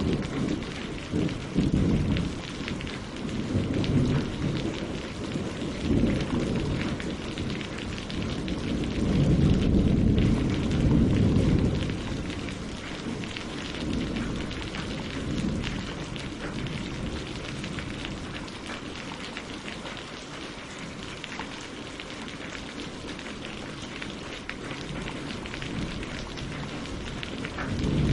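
Steady rain pattering on leaves and lake water, with a fine hiss of drops. Low rumbling swells come in under it, strongest about ten seconds in, then die away, leaving the rain alone.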